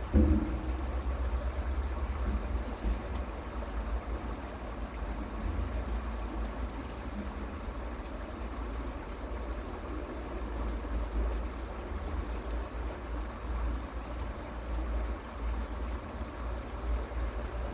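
Creek water running steadily, with a deep low rumble under it. There is a single thump right at the start.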